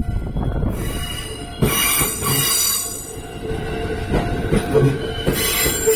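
E233-8000 series electric train passing close by, its wheels squealing with high ringing tones over a low rumble and a few thumps; the squeal swells about two seconds in and again near the end. The level-crossing alarm rings steadily underneath.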